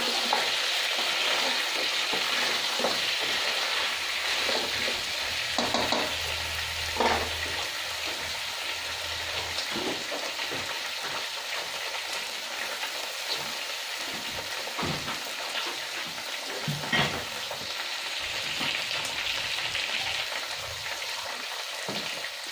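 Onion, tomato and spice masala sizzling in oil in a kadai, frying until the tomato melts down. A spatula scrapes and knocks against the pan now and then.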